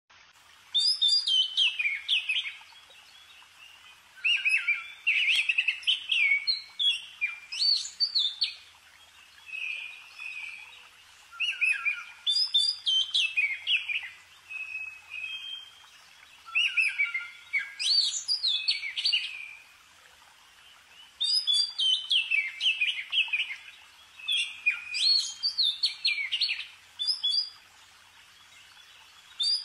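A songbird singing in repeated phrases of quick, high chirping and warbling notes, each phrase lasting a second or three, with short pauses between them.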